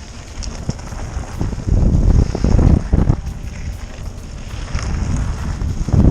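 Mountain bike riding down a wet dirt trail: wind buffeting the microphone over tyre rumble, swelling and easing several times, with a few light clicks and rattles from the bike.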